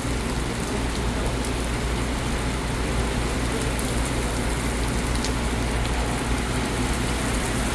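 Heavy rain pouring down steadily during a thunderstorm, with a low steady rumble underneath.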